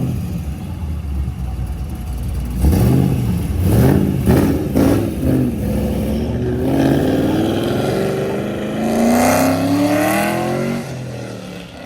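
A performance car's engine revving: several quick blips, then a long climbing rev from about halfway through that drops off near the end.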